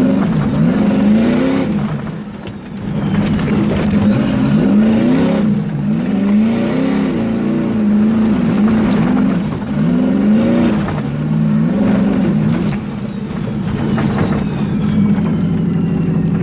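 Turbocharged 454 big-block Chevy V8 (S400 turbo) pulling under hard acceleration, its engine note rising and falling several times, with a high turbo whine gliding up and down over it. The sound dips briefly about two and a half seconds in.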